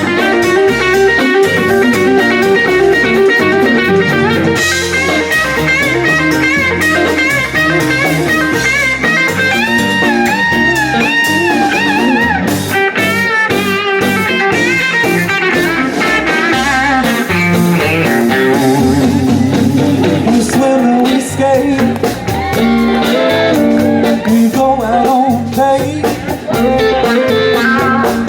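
Live blues band playing an instrumental passage, led by electric guitar with bent, wavering notes.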